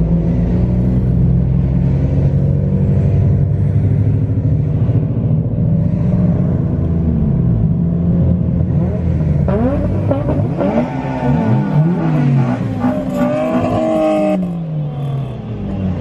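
Car engine running steadily on the move, then in the second half its pitch rising and falling several times as it is revved up and eased off.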